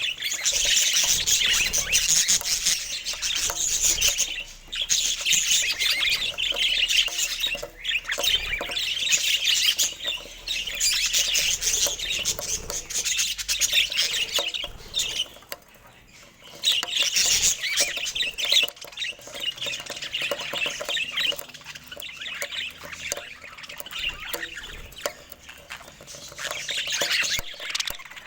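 Budgerigar chatter: rapid, continuous warbling and chirping, with a brief lull about halfway through before it picks up again.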